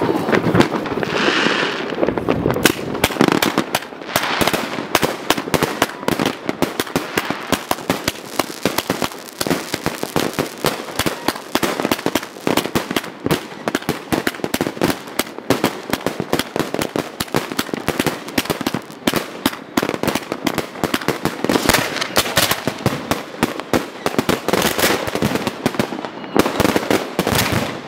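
Fireworks and firecrackers going off in a dense, irregular barrage of sharp bangs and crackles, many overlapping in quick succession.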